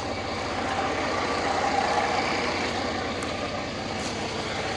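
A heavy truck's diesel engine idling steadily, with a rapid, even low pulse.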